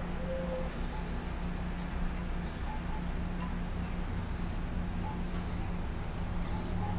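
Faint, high, thin chirps of bananaquits: a few short falling notes just after the start, then scattered softer ones, over a steady low hum and a constant faint high whine.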